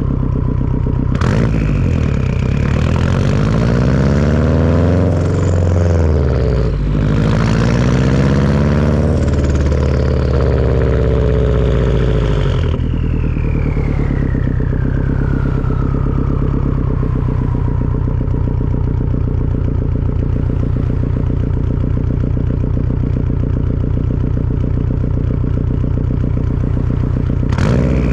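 Turbocharged Subaru flat-four with a Tomei turbo-back exhaust revving up twice, with a brief drop in between, then easing off to idle about 13 seconds in. The turbo whistle rises with the revs and glides slowly down in pitch for several seconds after the throttle closes. Sharp clicks about a second in and near the end.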